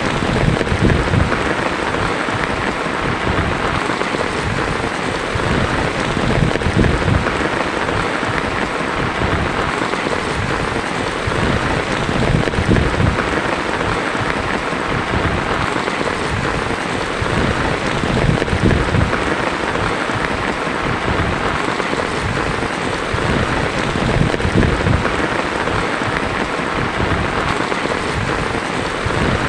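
Heavy rain drumming steadily on a tin roof, with low rumbles of thunder swelling and fading every few seconds.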